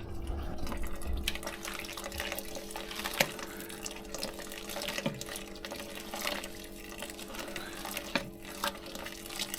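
Wort recirculating through a mash tun: liquid trickling and splashing over the steady hum of the recirculation pump, with scattered small drips and ticks.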